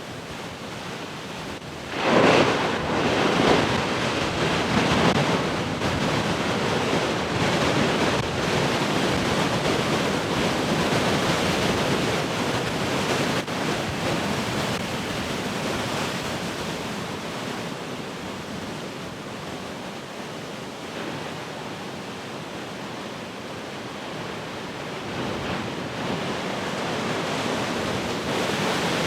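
Heavy ocean surf: a large wave breaks about two seconds in, and the wash of foam slowly ebbs before the next surge builds near the end. Wind buffets the microphone throughout.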